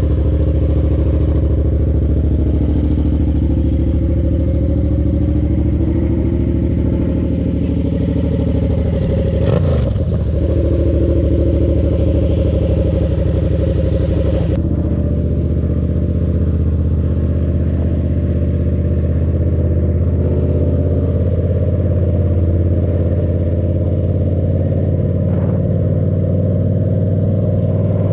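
Motorcycle engine idling steadily just after being started, with a brief dip and recovery in revs about ten seconds in.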